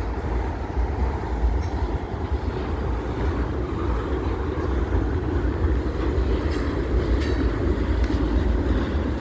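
CSX freight train rolling past, its cars making a steady low rumble on the rails with a few faint clicks.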